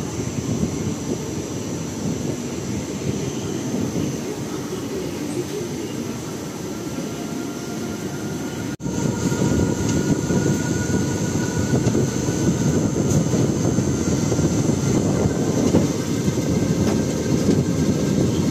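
Steady rumbling noise of a passenger train. It drops out for an instant about nine seconds in and comes back a little louder.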